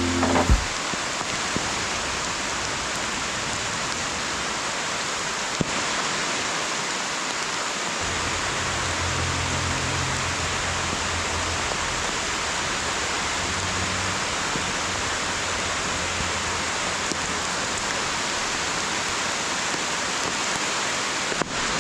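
Steady hiss of rain falling together with the rush of river water, even and unbroken, with a faint click about half a second in and another about five and a half seconds in.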